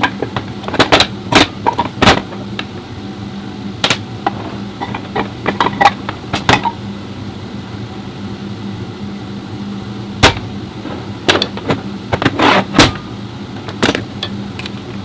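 Repeated sharp knocks and clanks, in irregular clusters, over a steady low hum.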